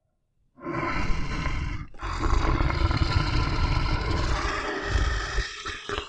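Bear growling in rough, low, drawn-out growls: a short one about half a second in, then a long one, then another starting near the end.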